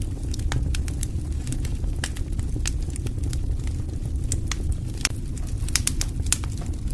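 Wood fire crackling: irregular sharp pops and snaps over a steady low rumble of burning, with a quick run of pops near the end.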